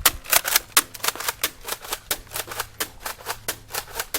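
Nerf crossbow blaster's plastic mechanism clicking in a quick regular run, about five sharp clicks a second, as it is worked and fired through its darts.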